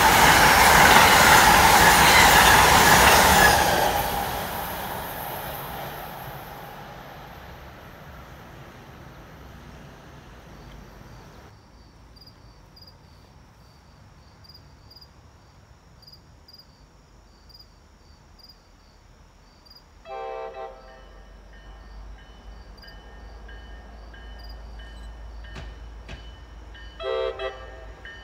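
Amtrak passenger train, an electric locomotive with coaches, passing at speed: loud wheel and car noise that fades away over several seconds. Later, against a quiet background, a distant train horn sounds two short blasts about seven seconds apart.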